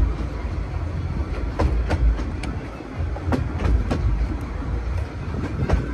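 Narrow-gauge (15-inch) passenger carriage running along the track, heard from on board: a steady low rumble with irregular clicks as the wheels pass over rail joints.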